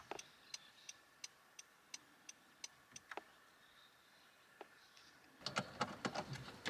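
Faint, regular ticking, about three ticks a second, which stops about three seconds in. Near the end there is louder, irregular clicking and clatter.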